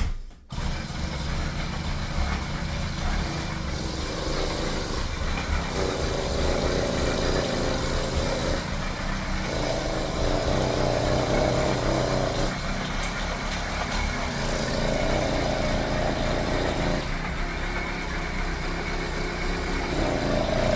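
80cc two-stroke motorized-bicycle engine being turned over through the rear wheel spinning on a bicycle trainer: tyre, chain and the engine's compression strokes run continuously without the engine catching, with a whine that swells and fades several times. It will not fire, which the owner puts down to gasoline more than three years old that no longer ignites.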